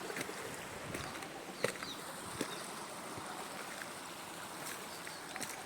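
Steady, faint rush of running stream water, with a few soft footsteps on the rocky trail.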